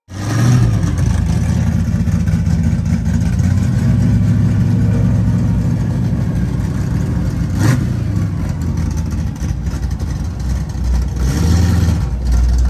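Engine of a 1969 Camaro muscle car running at idle with a loud, steady, deep rumble. One sharp click partway through.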